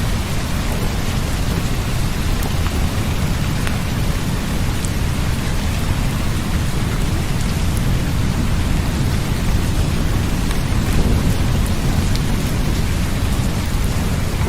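Steady rain, an even hiss with scattered droplet ticks, over a deep continuous low rumble.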